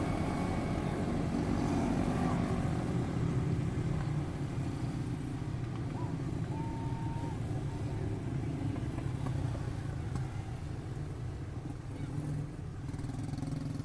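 Quarter midget race cars' small single-cylinder Briggs & Stratton Animal engines running together on the track, a continuous buzzing drone. A short steady high tone sounds about halfway through.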